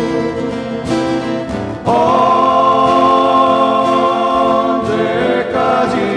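Group singing of a Korean pop-folk song over a strummed accompaniment, holding one long note from about two seconds in.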